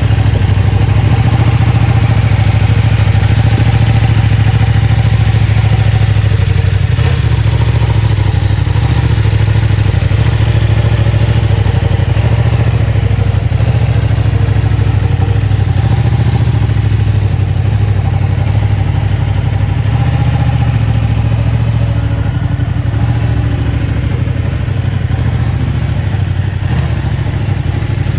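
2023 Ducati Panigale V2's 955 cc Superquadro V-twin engine idling steadily.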